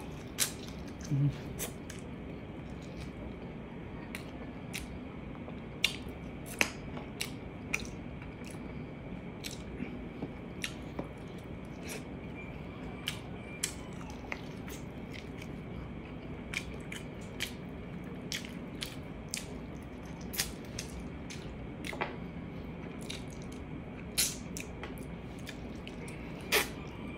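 Close-up eating sounds of braised pork ribs eaten by hand: chewing and biting with many sharp, wet mouth clicks at irregular intervals. There is a short low hum about a second in.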